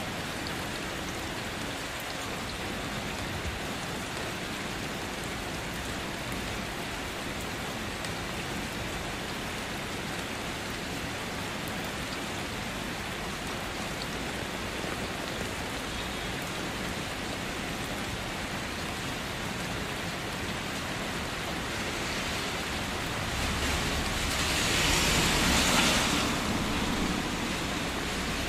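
Steady rain falling on a city street, a constant even hiss. Near the end, a louder rush of noise swells and fades over about three seconds.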